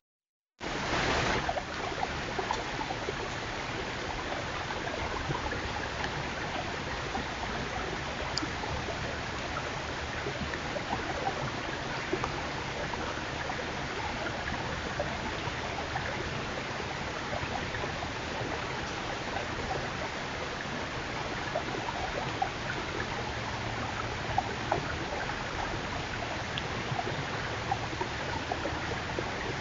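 Steady hiss with scattered faint clicks and ticks, cutting out briefly to silence just after the start.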